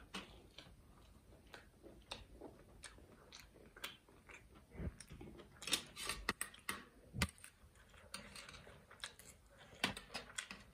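Close-miked chewing of a bite of fried vegetable momo, with mouth smacks and scattered sharp clicks that come thickest a little past the middle.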